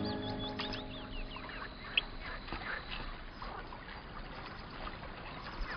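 Birds chirping and calling in quick short notes over a faint outdoor background, with one sharp click about two seconds in; the tail of piano music fades out at the start.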